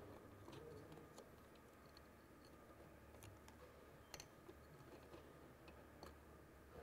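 Near silence with a few faint, sharp clicks of small metal parts being handled while the moped engine's stator is refitted.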